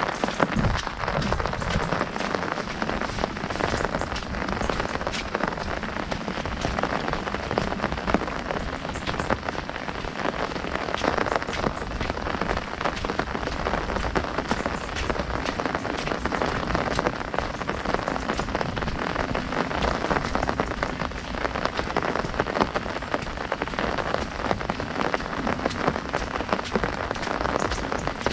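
Heavy rain drumming on an umbrella canopy overhead, a dense, continuous patter of drops.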